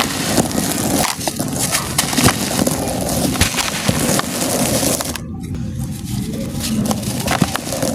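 Crunchy molded cement-and-sand shapes crumbling: a dense, continuous run of gritty crackles and sharp snaps.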